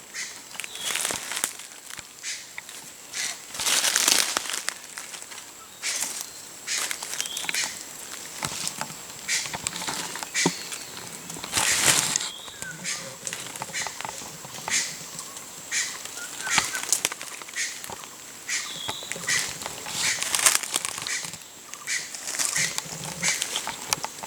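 Irregular rustling and crackling noises come at uneven intervals, with short high bird chirps scattered among them and a faint steady high whine underneath.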